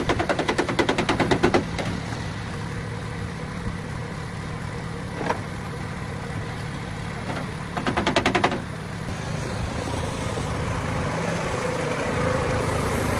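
Two bursts of rapid mechanical rattling from a power tool, about ten knocks a second, over a steady low hum. The first burst lasts about two seconds at the start and a shorter one comes about eight seconds in.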